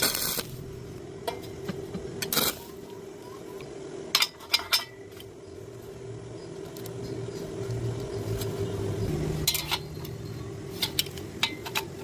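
Scattered sharp metallic clinks and knocks of steel being handled or struck during welding work, over a steady machine hum.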